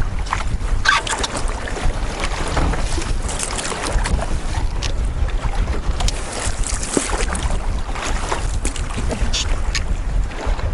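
Wind buffeting the microphone over rough, choppy water, with waves splashing against a canoe.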